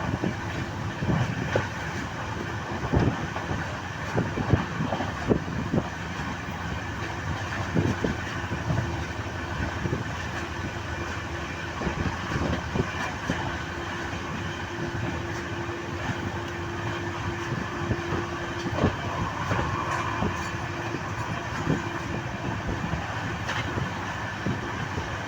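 Moving passenger train running steadily, a continuous rumble broken by irregular clicks and knocks of the wheels on the track. A steady hum joins in for several seconds past the middle.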